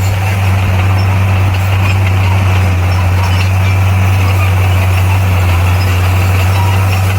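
Bulldozer's diesel engine running at a steady speed, a low unchanging drone.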